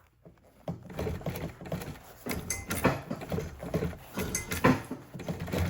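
Irregular clicks, taps and rustling from hands handling and fitting the armrest cover material.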